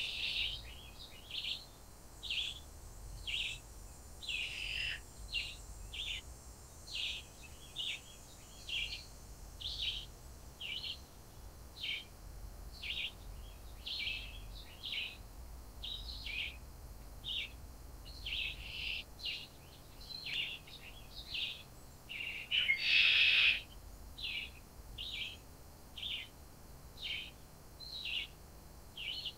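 A bird's short chirping calls, repeated over and over about once or twice a second, with one longer, louder call a little past the middle; a low steady rumble runs underneath.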